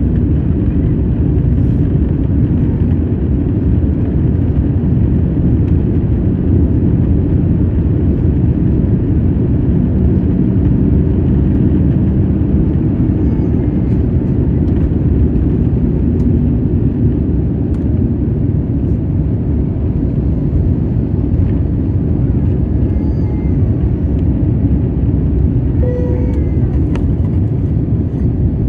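Steady low rumble of airliner cabin noise inside an Airbus A350, with a short tone sounding briefly near the end.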